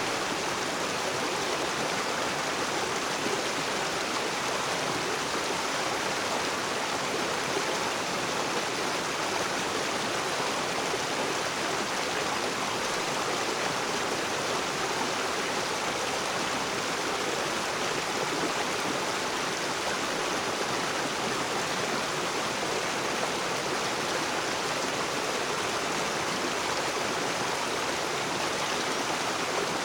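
River water rushing and splashing over rocks: a steady, even rush.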